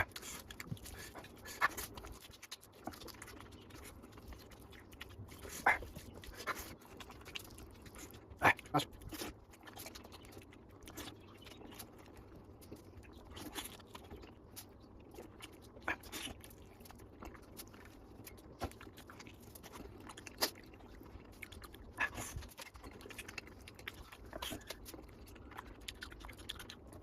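Close-miked eating of mutton curry with rice: wet chewing and lip smacking, with scattered sharp mouth clicks.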